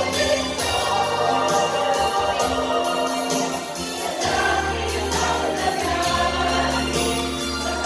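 Choir singing a Christmas carol with instrumental accompaniment: sustained voices over a steady bass line and an even beat of jingling percussion.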